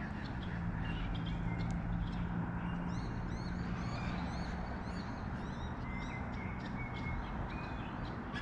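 Birds chirping: a quick run of repeated high chirps in the middle, with scattered single chirps around it, over steady outdoor background noise and a faint low hum.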